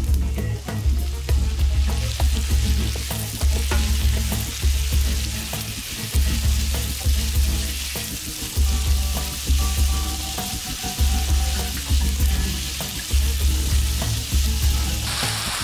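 Beef cubes and sliced garlic sizzling in hot oil in a frying pan as they are stirred with a silicone spatula, the sizzle growing louder about three seconds in. Background music with a steady beat plays underneath.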